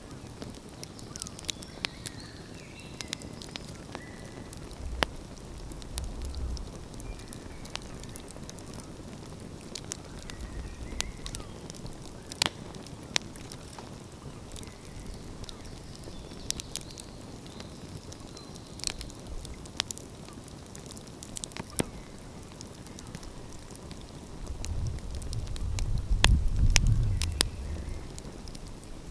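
Outdoor wood fire crackling, with scattered sharp pops over a steady low hiss. A low rumble swells up and fades near the end.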